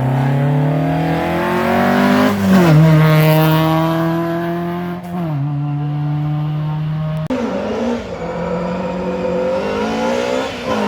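Rally car engine at high revs, climbing in pitch and then dropping sharply twice as the driver shifts or lifts. About seven seconds in, the sound switches abruptly to another hard-revving rally engine climbing again.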